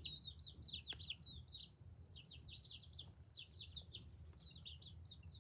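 Baby chicks peeping: a faint, steady stream of short, high chirps, several a second.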